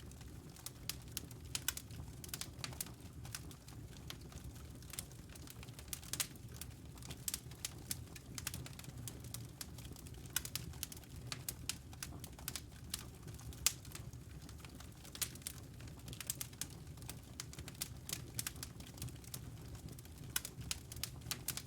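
A fire in a stone fireplace crackling steadily: irregular sharp snaps and pops over a low, even rumble from the flames.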